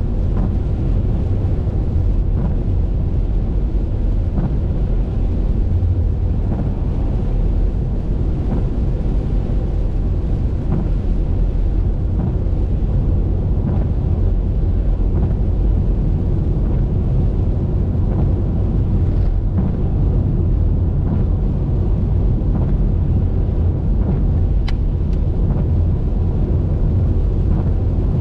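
Steady low rumble of a car driving on a highway, road and wind noise, with a few faint scattered ticks.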